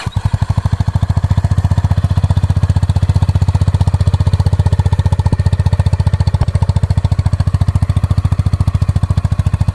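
Honda CB350 RS single-cylinder engine idling steadily through its exhaust, a loud, even train of low exhaust pulses with no revving.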